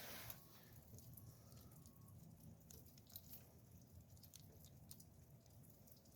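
Near silence with faint scattered clicks and snips of wire strippers working on the insulation of automotive wires.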